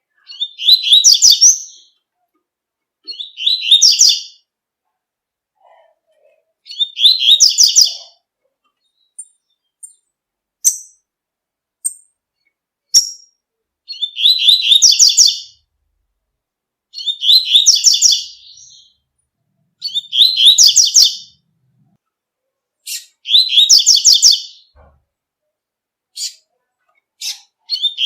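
Double-collared seedeater (coleiro) singing its 'tui-tui' song: a bright, high phrase of about a second, repeated every two to three seconds, about eight times, with a few single short chirps in the gaps.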